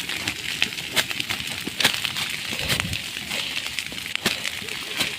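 Dry forest undergrowth burning in a wildfire, crackling with irregular sharp pops over a steady hiss.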